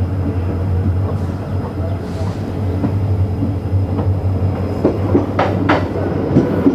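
Passenger train running along the track: a steady low rumble, with a few sharp clacks of the wheels over rail joints in the second half.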